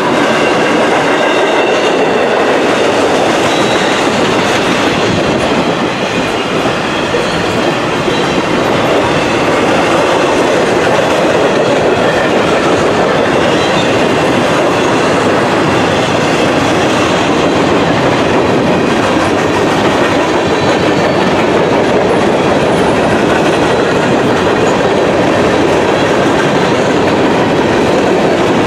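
A freight train's cars rolling steadily past at close range, their wheels clacking over the rail joints.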